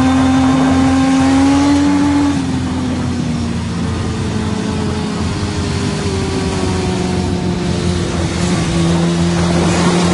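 Motorcycle engine running at high revs, its pitch held steady, rising slightly about a second and a half in, dropping just after two seconds, then slowly falling.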